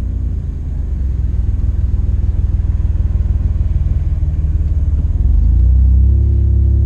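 A car engine running with a deep, low rumble; it grows louder a little after five seconds in.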